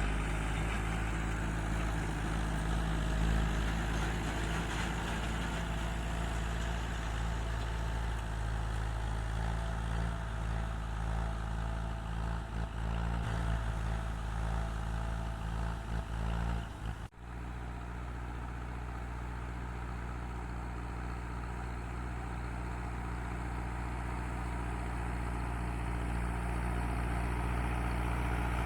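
Tractor engine running steadily. About seventeen seconds in it cuts out for an instant and resumes, then slowly grows louder.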